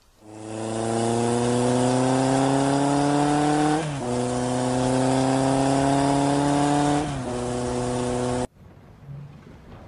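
Car engine accelerating hard, its pitch climbing through the revs and dropping at two gear changes, then cutting off abruptly.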